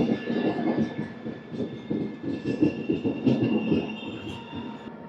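A moving LHB passenger train running over the track: a dense rumbling clatter of wheels on rails with thin, steady high squealing tones above it. It eases off after about four seconds.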